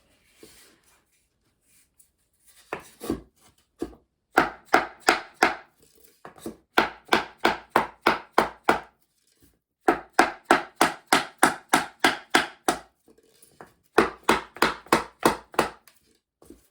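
Rapid knocking on the edge of a 2x2 compressed-wood subfloor panel, tapping it in tight against the neighbouring panel. A few single knocks come first, then four runs of sharp blows at about four a second.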